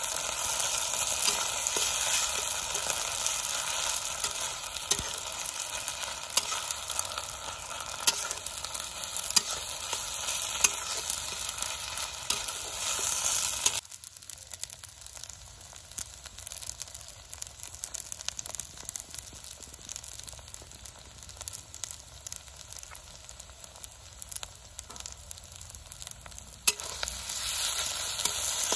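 Snails frying in a wok over a wood fire: a steady sizzle with the clicks and scrapes of a spatula stirring them in the pan. About halfway through, the sizzle suddenly drops much quieter, and it comes back loud near the end.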